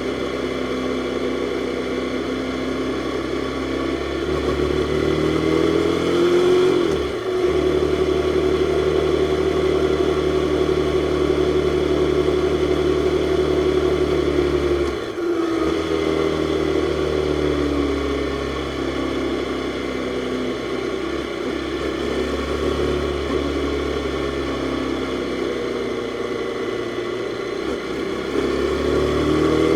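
Jawa 42's single-cylinder, four-stroke, liquid-cooled DOHC engine under way on the road. The engine note rises, cuts out briefly about seven seconds in and again about fifteen seconds in as gears are changed, holds steady, sinks, and climbs again near the end.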